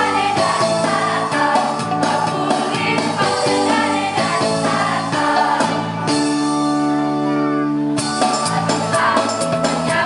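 Choir singing with musical accompaniment. About six seconds in they hold a chord for about two seconds before the rhythm picks up again.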